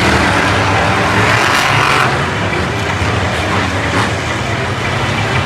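Monster truck engine running steadily with a deep, even drone.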